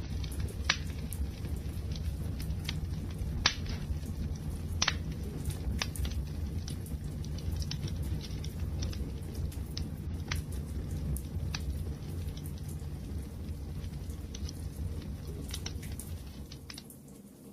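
Wood fire burning with a steady low rumble and scattered sharp crackles and pops. The sound dips briefly near the end.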